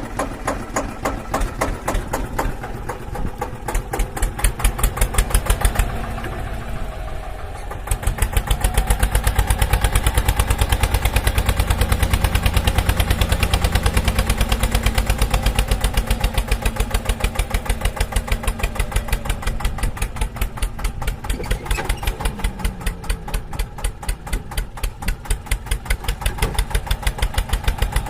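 Mini tractor engine running with a rapid, even thudding pulse. About six seconds in it drops quieter for a couple of seconds, then comes back louder and runs on steadily.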